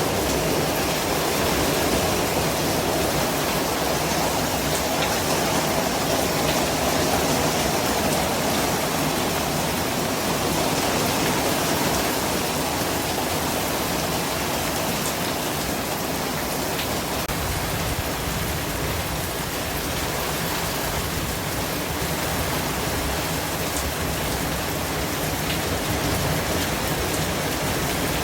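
Continuous white noise: a steady, even hiss with no breaks or distinct events.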